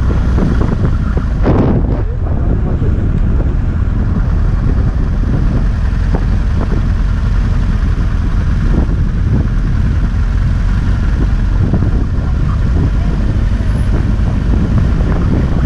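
Motorcycle riding along: a steady low engine drone mixed with wind rushing over the microphone, with a brief louder gust about one and a half seconds in.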